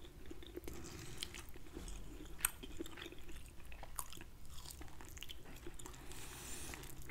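Close-miked chewing and gnawing of grilled lamb chop meat off the bone: faint, scattered wet mouth clicks and smacks, with one sharper click about two and a half seconds in.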